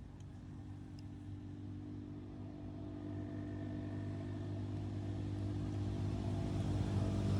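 A motor vehicle's engine running steadily at an even pitch, growing gradually louder.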